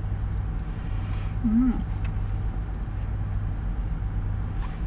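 Steady low hum of an idling car heard from inside the cabin, with a person's brief 'mm' about a second and a half in.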